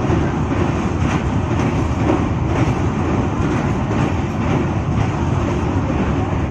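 Padatik Express passenger train running along the track: a steady, loud rumble of the wheels and coaches.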